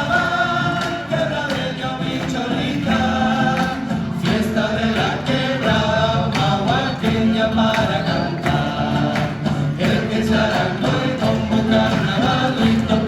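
Several voices singing an Argentine folk song together over a steady instrumental accompaniment with a regular beat.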